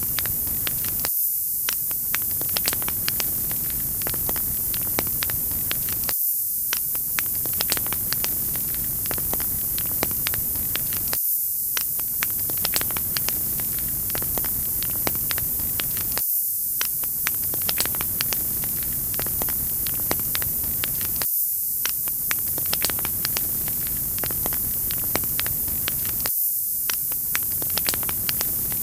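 Wood fire crackling: many sharp pops and snaps over a steady, bright hiss. The recording is a short loop that repeats about every five seconds, with a brief drop-out at each seam.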